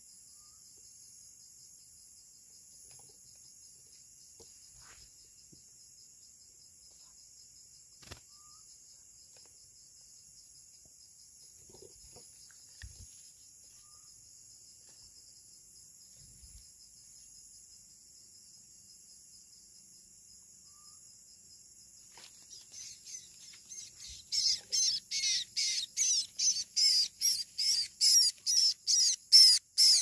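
Steady high chirring of crickets. From about 24 s, a small bird gives loud, rapid, repeated calls, two or three a second, as it is grabbed by hand.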